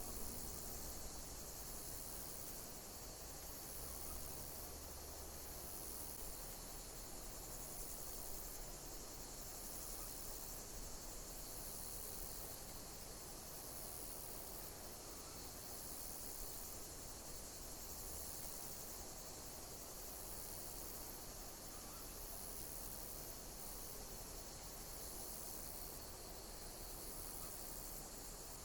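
Insects chirping: a steady high-pitched chorus with a repeating high chirp that comes back roughly every second and a bit.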